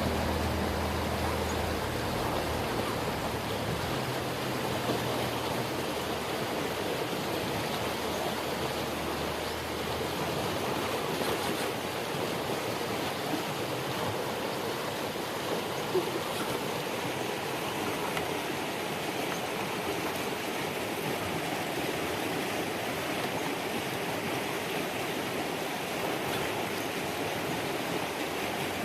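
Swiftly running creek water rushing steadily. A low motor hum fades out in the first couple of seconds.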